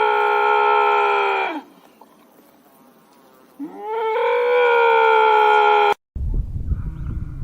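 Two long, drawn-out animal calls, each rising in pitch at the start and then held steady; the second is cut off suddenly, and a low rumbling noise follows.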